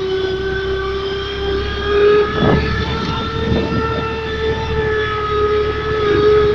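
Motorcycle sound booster playing a synthetic MotoGP-style engine sound through its speaker: a steady, high drone that drifts slightly in pitch, with a brief swell a little past two seconds in.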